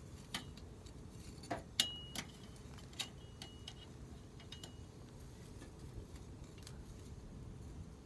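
Wood campfire crackling: sparse sharp pops and ticks over a low steady rumble, the loudest pop about two seconds in, a few of them followed by a brief high ring.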